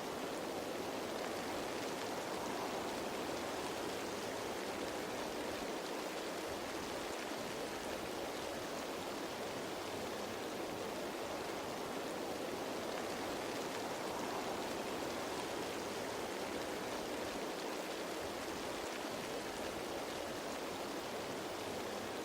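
Rain falling on leaves, a steady, even hiss of water with no single drops standing out.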